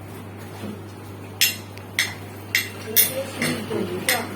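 A series of sharp clinking taps on a hard object, about five of them, irregularly spaced and starting over a second in.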